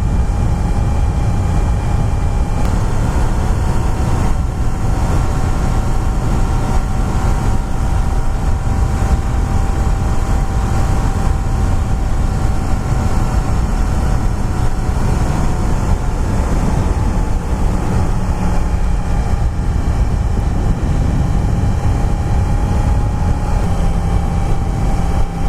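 Yamaha FZ-10 motorcycle's crossplane inline-four engine running at a steady cruise, its pitch holding nearly level with small shifts in throttle, under heavy wind rush on the helmet-mounted microphone.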